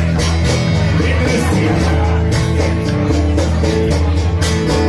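Music: a Russian-language song with a steady drumbeat and a man singing, one sung line about a second and a half in.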